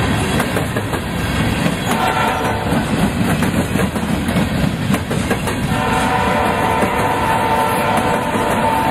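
Freight train passing close by, a low rumble with wheels clacking over the rail joints. Its horn is sounding at the start, stops within the first second, and blows again about six seconds in.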